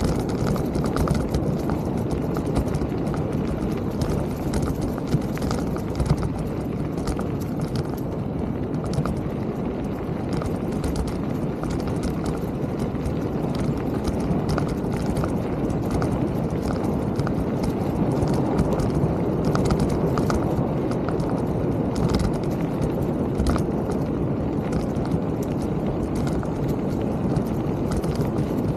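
Mountain bike being ridden over a rough trail: a steady low rumble with frequent small clicks and rattles.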